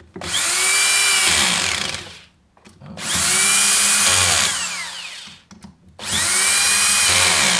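Cordless screwdriver driving screws into a Husqvarna 240 chainsaw, three runs of about two seconds each, the motor whine rising as it spins up and falling as it stops.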